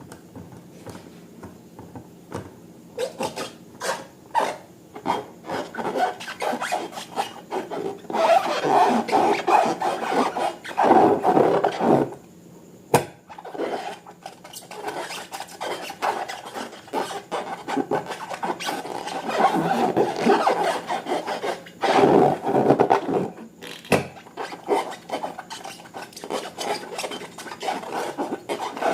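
Slime being mixed and worked, making irregular rubbing and scraping strokes, louder in two stretches about a third of the way in and again past two-thirds.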